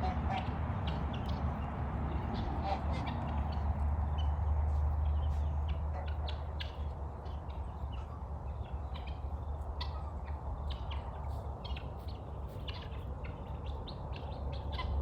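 Birds chirping and calling in many short, quick notes, over a steady low rumble.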